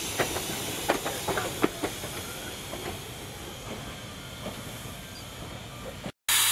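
Wheels of narrow-gauge passenger cars clicking irregularly over rail joints as the train rolls away, the clicks thinning out and fading as it recedes. Near the end, after a sudden cut, a loud steady hiss of steam from East Broad Top steam locomotive #15, a 2-8-2 Mikado.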